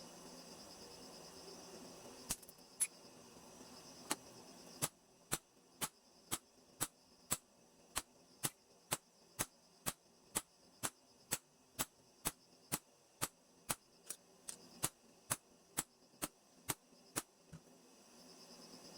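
Hammer blows, a few scattered at first, then a steady run of about two blows a second that stops near the end. Crickets chirp faintly at the start and end.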